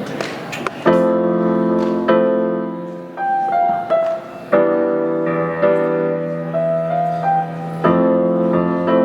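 Piano playing the slow opening of a song. Sustained chords are struck at intervals, the first about a second in, and single higher melody notes move between them.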